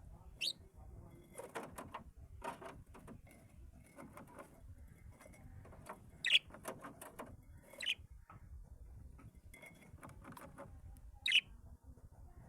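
Caged pet birds calling: four short, sharp chirps, each sweeping downward in pitch, with clusters of quick clicking sounds between them.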